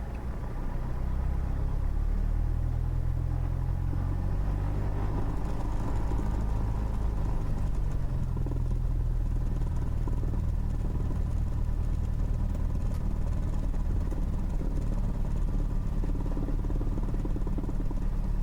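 Cessna 172's piston engine and propeller running steadily at low power, heard from inside the cabin; the rumble rises a little about a second in and then holds even.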